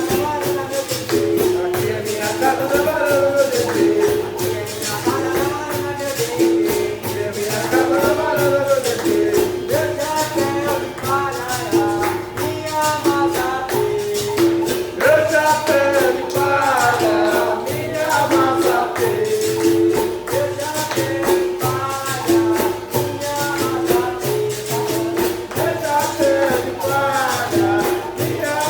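Capoeira music: a pandeiro (frame drum with jingles) keeps a fast, steady rhythm over a repeating two-note pattern, likely from a berimbau, with voices singing over it.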